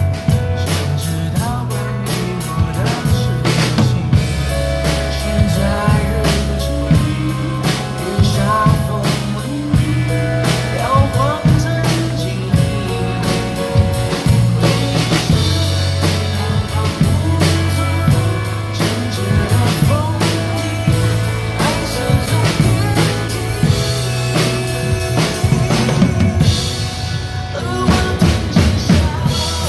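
A drum kit played with a steady beat of kick, snare and cymbals along to a recorded pop song carrying bass and melody.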